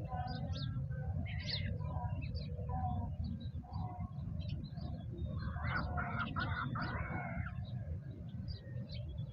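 Small birds chirping repeatedly, with a louder, rougher bird call lasting about two seconds near the middle, over a steady low rumble.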